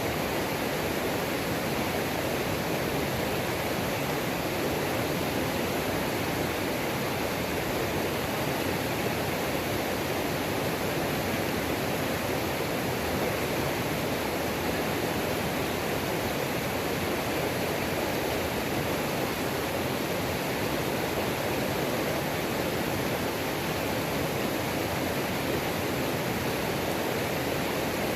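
Waterfall on a mountain creek rushing steadily, with no change in level.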